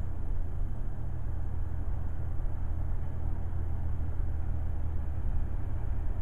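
Low steady rumble of an approaching Trinity Railway Express diesel commuter train, still some way down the track, swelling slightly near the end.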